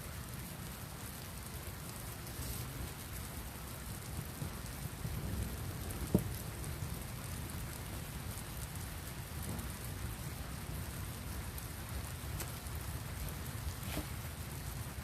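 Steady rain falling, with a single sharp tap about six seconds in.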